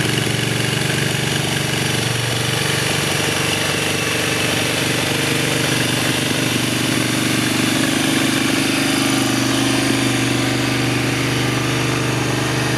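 Triumph Bonneville Scrambler 900's air-cooled parallel-twin engine idling steadily.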